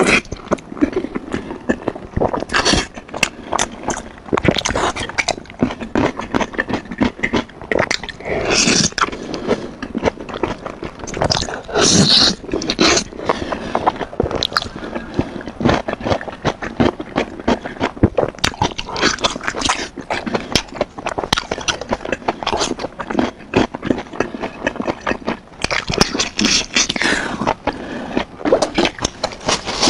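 Close-miked chewing of sticky braised beef tendon: wet, irregular lip smacks and sticky mouth clicks, with a few longer slurping stretches.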